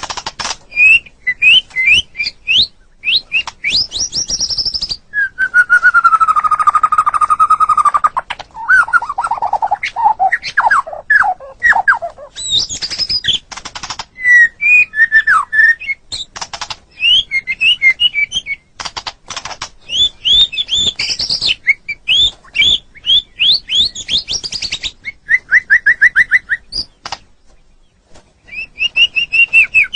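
White-rumped shama (murai batu) singing a long, varied song: quick runs of chips, whistled notes and trills. About six seconds in comes a longer whistle that slides down in pitch, and there is a short pause near the end.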